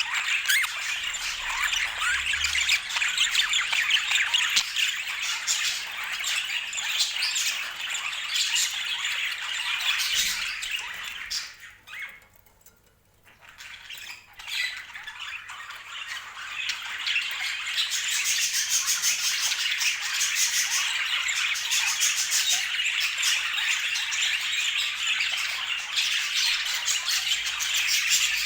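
Budgerigars chattering and squawking in a dense, continuous stream of quick chirps, which stops for a couple of seconds about twelve seconds in and then starts again.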